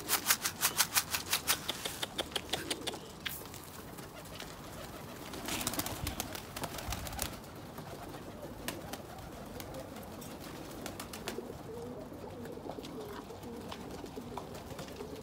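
Domestic pigeons cooing, low wavering coos repeating through the second half. Early on, a rapid run of sharp clicks or taps, about five a second, dies away after a few seconds.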